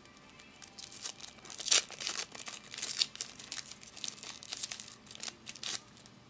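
Foil trading-card pack wrapper crinkling and tearing as it is handled and ripped open, in a run of sharp rustles with the loudest one a little under two seconds in.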